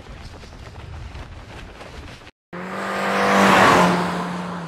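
A low rumble, a brief moment of silence, then a cartoon vehicle engine sound effect. The engine swells to a peak and fades with a small drop in pitch, like a car driving past.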